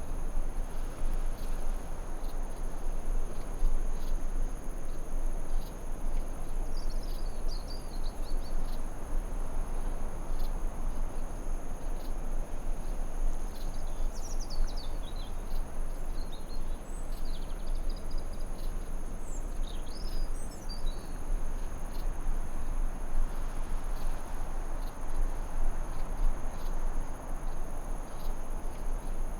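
Forest ambience: a constant rushing background with two steady high-pitched insect-like tones throughout. Birds give short chirping calls about a quarter of the way in and again through the middle.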